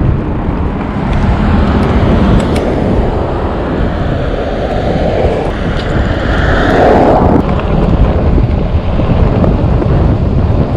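Wind rushing over the microphone of a moving e-bike, a loud steady rumble, with a louder swell of noise about five to seven seconds in.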